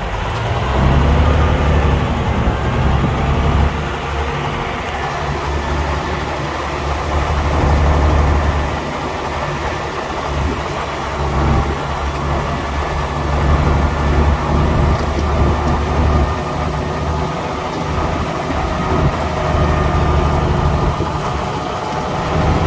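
Heavy diesel earthmoving machinery working: a deep engine note that swells and eases several times as the machine takes and sheds load, with a faint steady whine above it.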